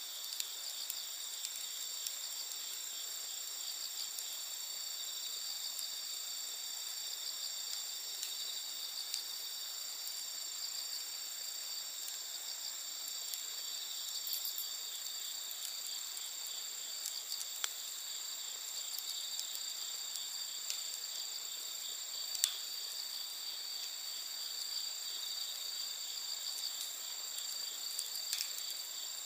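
Steady chorus of crickets trilling, a continuous high ringing of several overlapping pitches. A wood campfire crackles now and then, with a sharper pop about two-thirds of the way through.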